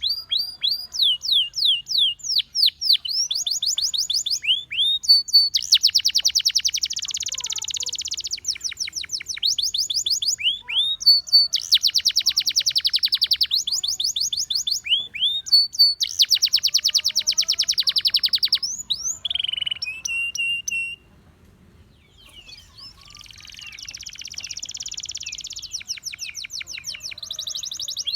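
Gloster canary singing. Runs of quick, sharp down-slurred notes alternate with long, fast rolling trills. The song stops for about two seconds a little past the middle, then resumes with a softer trill.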